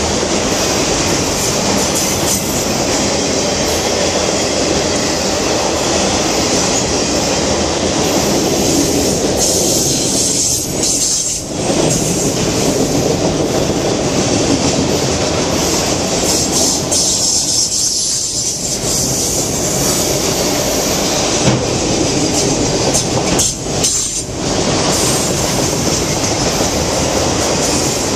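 Freight train of autorack cars rolling past close by: a steady, loud noise of steel wheels on the rails, with a strong high hiss over the rumble and a few brief dips.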